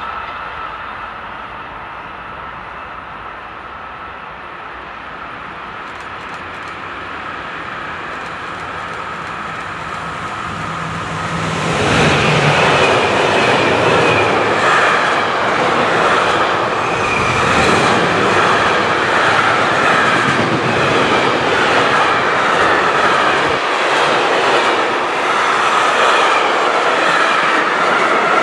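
A train passing close by on the main line. Its sound builds for several seconds, turns loud about twelve seconds in, and stays loud, with steady clickety-clack from the wheels over the rail joints.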